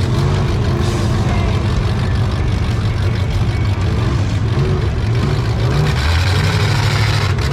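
Truck engine running loud, its pitch rising and falling a little as it revs.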